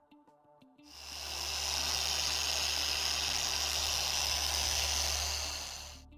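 Electric paint polisher running, spinning up about a second in, running steadily with a hissing whir, then winding down near the end.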